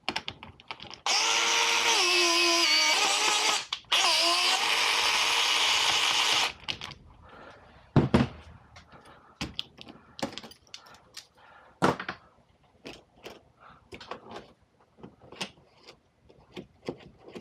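Electric pipe flaring tool's motor running in two runs of about two and a half seconds each, with a short break between them and its pitch shifting as it works, forming the flare on a copper refrigerant pipe end. Scattered clicks and knocks of tools being handled follow.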